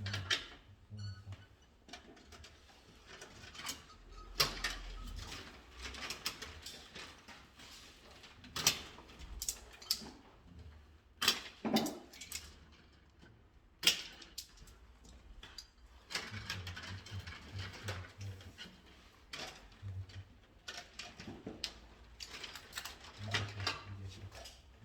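Irregular clicks, taps and knocks of hand work with tools and small parts, with light rustling and a few brief low hums in between.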